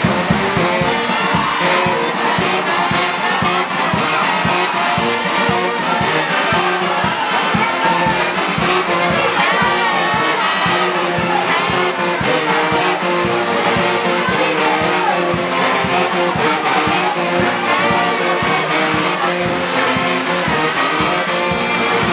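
Brass band music: trumpets and trombones playing held, steady notes.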